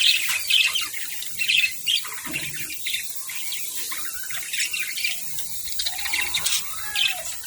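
Budgerigars chirping and chattering in many short, irregular calls.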